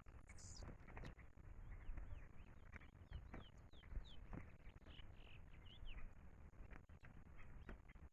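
A songbird giving a faint run of short, quick downward chirps, most of them in the middle of the stretch, against scattered clicks and a low background rumble.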